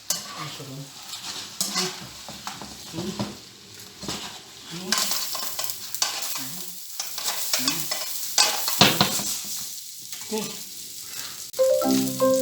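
Sauce and seafood frying in a hot pan while being stirred, with a steady sizzle and the utensil clicking and scraping against the pan. The sizzle grows louder about halfway through. Xylophone-like music comes in just before the end.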